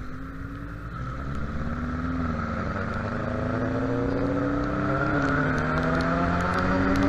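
Suzuki Bandit 650N inline-four engine under way, its pitch climbing slowly as the bike accelerates, easing slightly about five seconds in, then holding steady, over low road and wind rumble.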